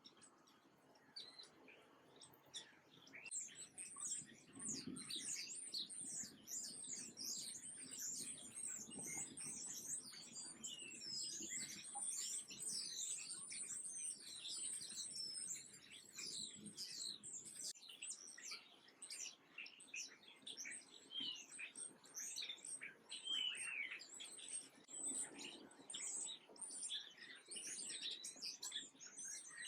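Many small birds chirping and twittering at once: a dense, continuous chorus of short high chirps. It starts thinly about a second in and fills out within a couple of seconds.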